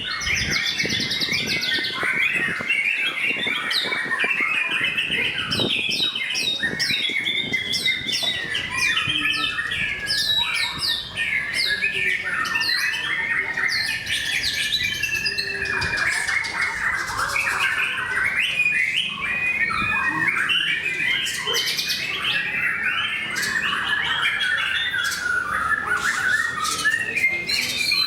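White-rumped shama (murai batu) song: a dense, unbroken run of rapid whistles, trills and harsh notes.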